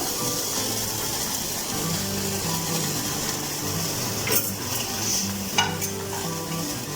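Marinated chicken pieces sizzling on a hot grill, a steady hiss, with two short clicks about four and a half and five and a half seconds in.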